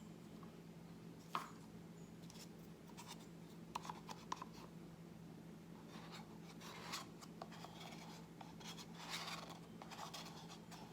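Faint clicks, taps and light scraping of plastic paint cups and a stir stick as fluid acrylic paint is poured and layered into a cup, over a steady low hum.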